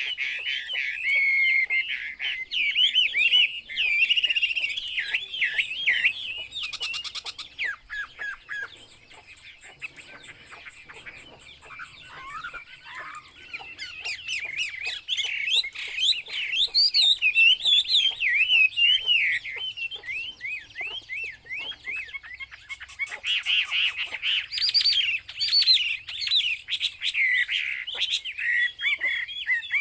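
Chinese hwamei (Hwamei laughingthrush) singing a fast, varied run of rich whistled phrases that swoop up and down in pitch. A short buzzy rattle comes about seven seconds in. The song falls to a quieter stretch a few seconds later and picks up loud again from around fourteen seconds.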